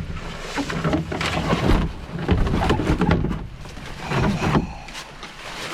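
Footsteps scuffing and slipping on a rain-soaked, muddy portage trail, with irregular thumps and rustling, and the walker's heavy, grunting breaths.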